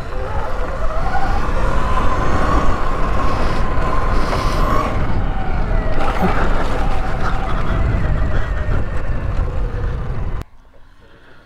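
Electric dirt bike riding, its motor whine rising and falling with the throttle over heavy wind rumble on the microphone. It cuts off abruptly near the end.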